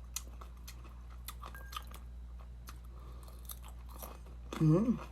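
Close-up chewing of crunchy food, with many small crackling clicks over a steady low hum. Near the end comes a short hummed vocal sound that rises and falls in pitch.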